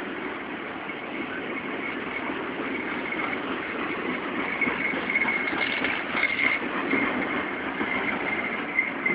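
Double-stack container train cars rolling past: a steady rumble and clatter of steel wheels on the rails, with a thin high squeal that comes and goes, stronger after about five seconds, and a few sharp knocks in the second half.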